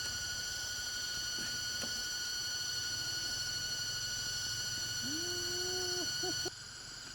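A steady high-pitched whine of several even tones. About five seconds in, a kitten gives one short meow that rises and holds for about a second, then two quick chirps. The whine drops away suddenly near the end.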